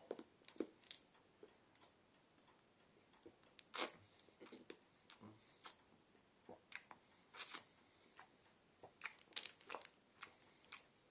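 Quiet, scattered clicks and short rustles of small objects being handled, irregular and a few seconds apart, with a slightly louder rustle about four seconds in and a cluster near the end.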